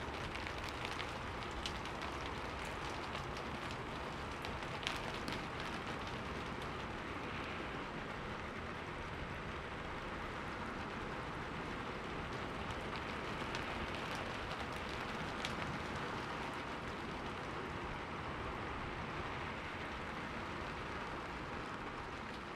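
Steady rain falling: a dense, even hiss with scattered sharper drop clicks.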